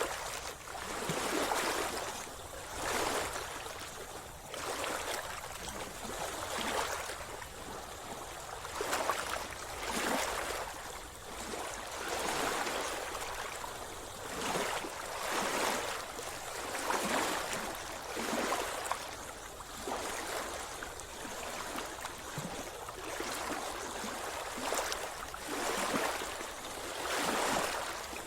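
Sea water splashing and sloshing close by, in repeated surges every second or two over a steady watery hiss.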